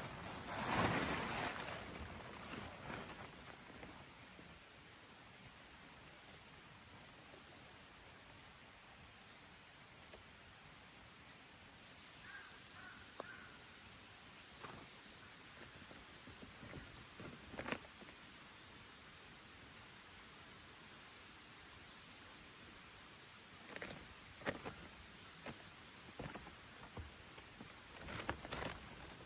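Steady, high-pitched chorus of autumn insects, with occasional short rustles and clicks over it.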